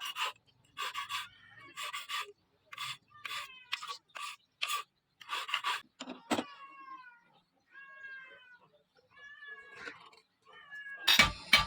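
A cat meowing again and again, each call dropping in pitch, over short scraping strokes roughly once a second. Several loud knocks come near the end.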